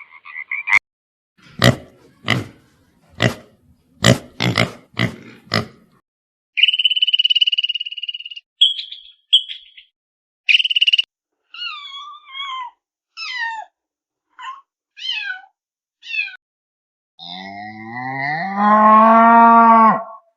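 A string of different animal calls, cut one after another: a run of about eight short harsh calls, then high whistled calls, a series of quick falling chirps, and near the end one long, drawn-out low call.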